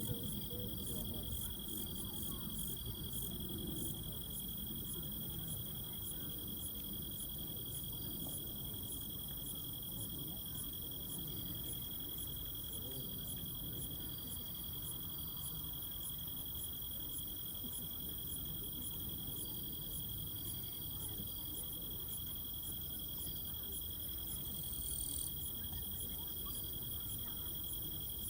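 Insects trilling in one continuous, steady high tone, with fainter higher chirps pulsing about three to four times a second in the first few seconds. Underneath is a low, even rumbling murmur.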